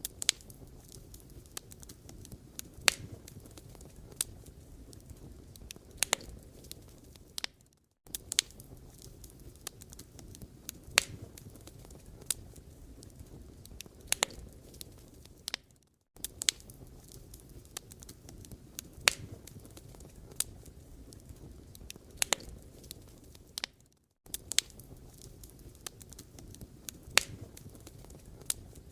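Firewood burning: a low, steady rumble of the fire with frequent sharp crackles and pops from the wood. The sound cuts out briefly and comes back about every eight seconds.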